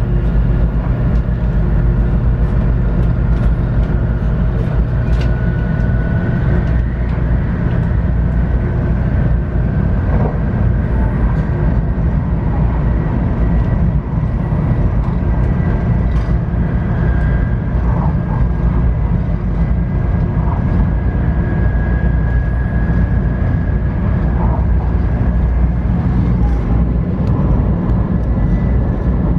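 JR West 500 series Shinkansen, heard from inside the car while running: a steady heavy rumble under the high whine of its Toshiba GTO VVVF inverter and traction motors. The whine climbs slowly in pitch.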